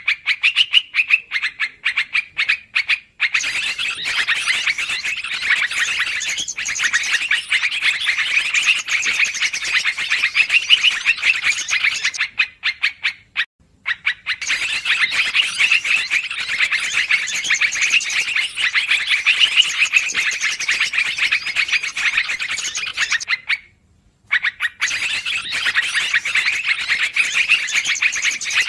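Recorded yellow-vented bulbul (trucukan) lure calls: dense, agitated chattering that runs almost unbroken, with short breaks about 3, 13 and 24 seconds in.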